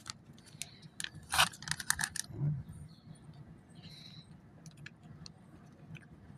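Packaging being handled as leftover cat food is wrapped up: a burst of rustling and sharp clicks about a second in, then fainter scattered clicks and rustles.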